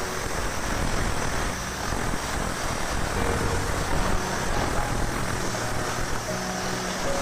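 Steam cleaner jet spraying an engine bay with a steady rushing noise.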